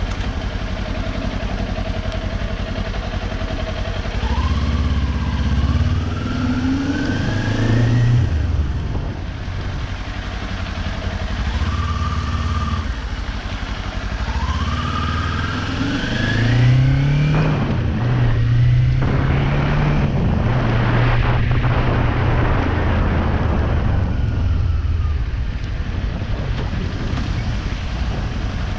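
Kawasaki Ninja 400's parallel-twin engine under way: the revs climb through the gears twice with short breaks at the shifts, hold a steady note for several seconds, then ease off near the end.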